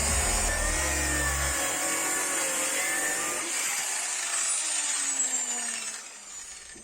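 Electric saw cutting a pine board. Its tones slide downward near the end as the sound fades away.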